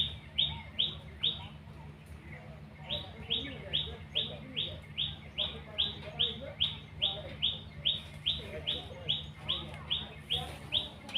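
A bird calling a fast series of short, repeated high notes, about three a second, with a brief pause about two seconds in before the series carries on.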